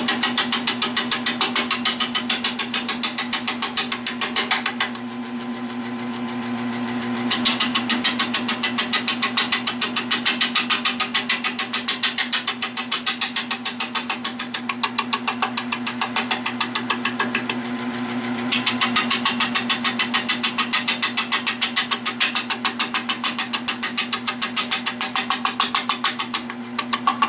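Nova 16/24 wood lathe spinning an out-of-round oak knot blank, with a turning gouge cutting into the uneven wing: a rapid, even knocking as the tool is hit on every revolution, over a steady hum. The cut is hitting hard, an interrupted cut on the off-balance wing. The knocking lets up for a couple of seconds about five seconds in.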